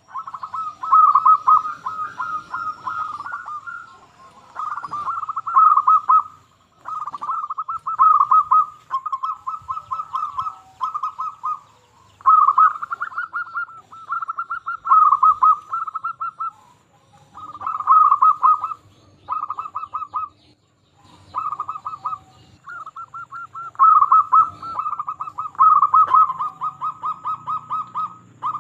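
Zebra dove (perkutut) singing its cooing song over and over: bouts of rapid staccato notes, each a second or two long, with short pauses between them.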